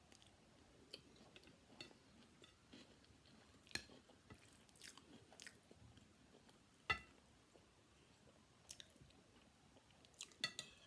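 Faint close-up chewing of a mouthful of fried rice, with a metal spoon clinking against a ceramic plate and bowl: single clinks about four and seven seconds in, the second the loudest, and a quick few near the end.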